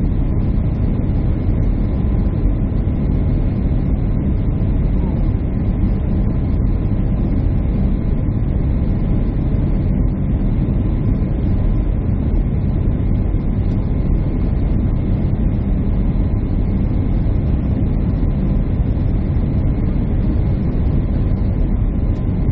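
Airliner cabin noise: a steady, loud rumble of jet engines and airflow heard inside the passenger cabin, with a faint steady whine over it.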